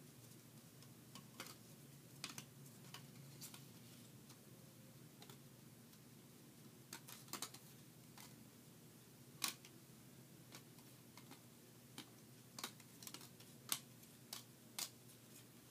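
Faint, irregular light clicks and taps of trading cards being handled and sorted through, with low room hum between them.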